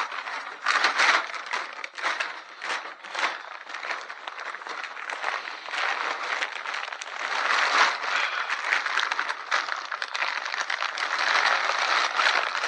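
Bags being crumpled and stuffed into a container that is filling up: continuous irregular crinkling and crackling.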